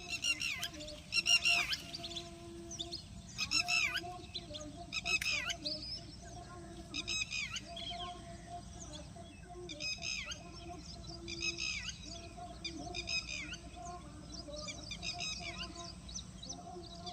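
Birds calling in repeated bursts of high chirps every second or two, over a steady low tone.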